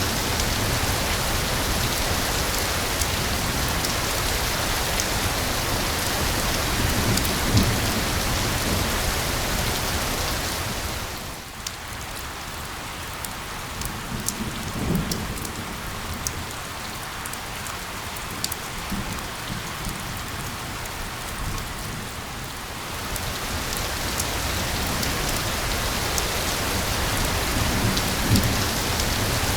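Steady rain falling on a surface, with scattered sharp drop ticks. About a third of the way in it fades noticeably quieter for some twelve seconds, then swells back to its earlier strength.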